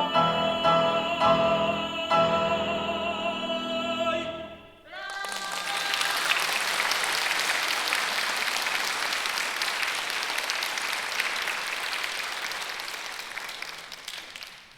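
A tenor with piano accompaniment ends a song on a held, vibrato-laden note about five seconds in. Audience applause follows for about ten seconds and thins out near the end.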